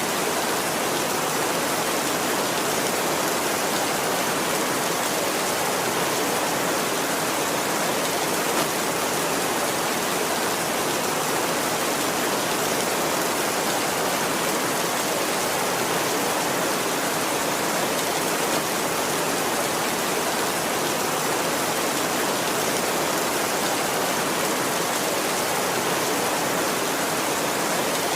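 Heavy rain drumming steadily on a tin roof, a dense, even hiss that doesn't let up.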